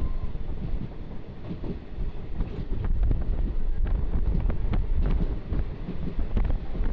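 Passenger train running, heard from on board: a steady heavy low rumble with frequent irregular clacks and rattles, and wind buffeting the microphone.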